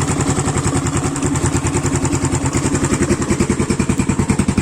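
Irbis TTR 250 dirt bike's single-cylinder four-stroke engine idling with a quick, even beat, the pulses growing more distinct near the end. It is freshly rebuilt with a new cylinder, piston and rings, and the knock it had seems to be gone.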